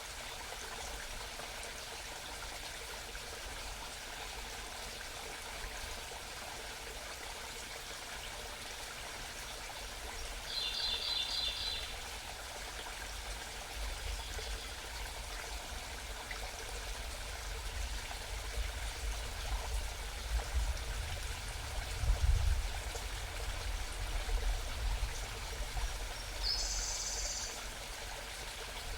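A mountain stream babbling steadily. A small bird sings a quick run of repeated high notes about ten seconds in and gives a brief, higher call near the end. Low rumbling comes and goes in the second half, loudest a little past twenty seconds.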